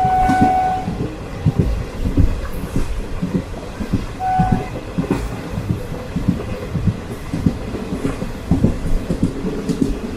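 Pamini Express passenger train running along the track, its wheels clattering irregularly over the rails, with two short horn toots: one at the start and another about four seconds in.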